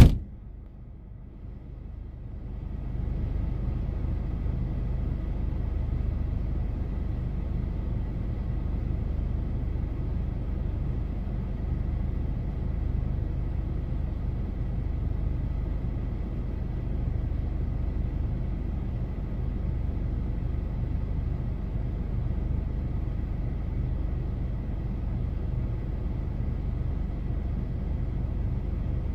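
A car's engine idling, heard from inside its cabin: a steady low rumble that comes up about two and a half seconds in and holds even.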